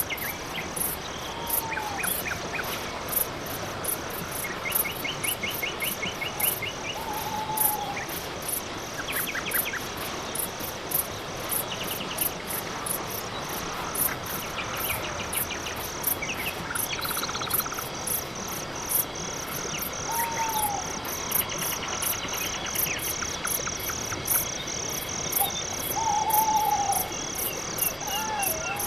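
Night forest ambience dominated by crickets chirping in a steady, regular rhythm over a constant high buzz. Other insects add short rasping trills now and then, and a few brief curved whistled calls from some other animal break in at scattered moments.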